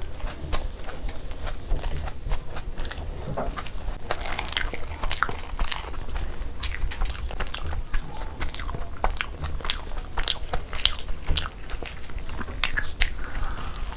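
Close-miked chewing and biting: a person eating boiled eggs in spicy masala gravy with puri by hand. The mouth makes many sharp clicks and smacks throughout.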